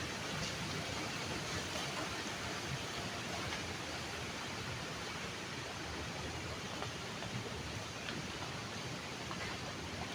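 Steady rush of flowing river water, with a few faint ticks scattered through it.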